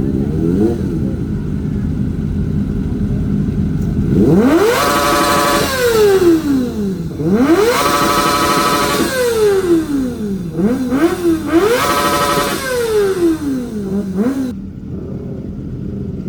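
Motorcycle engine idling, then revved three times, each rev climbing and falling back with short blips of the throttle between them, before settling back to idle near the end.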